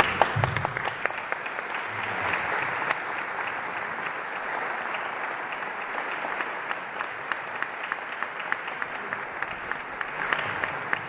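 Audience applauding steadily, many hands clapping, with scattered louder claps.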